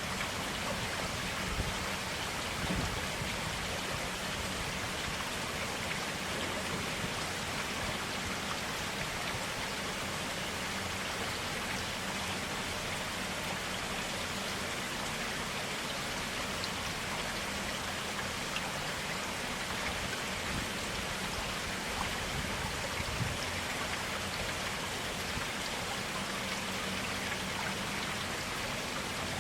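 Clear water flowing and splashing steadily in a small stream, with faint droplet-like ticks.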